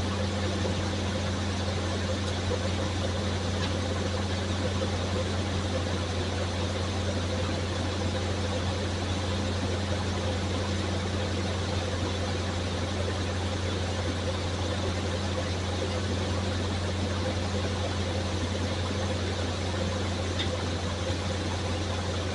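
A 1975 Corvette's small-block V8 idling steadily, a low even hum with no change in speed.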